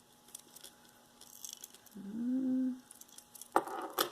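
Metal costume jewelry jingling and clinking as it is handled, with a couple of sharp clacks near the end. A brief hummed "hmm" comes from the person in the middle.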